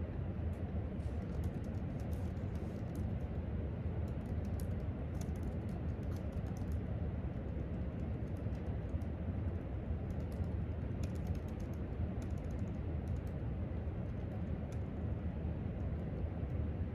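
Typing on a laptop keyboard in scattered bursts of light clicks, over a steady low background hum.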